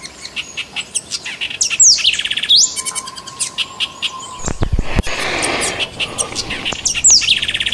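Songbird calls: whistled notes sweeping down and then up, with fast trills, heard twice about five seconds apart. Midway there are a few dull thumps, then about a second of hissing noise.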